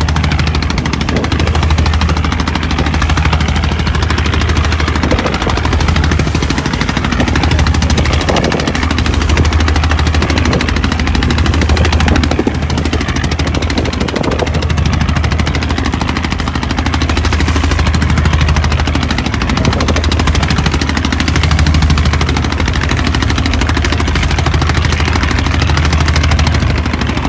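Boat engine running steadily at a rapid chugging beat, with a haze of wind and rushing water over it.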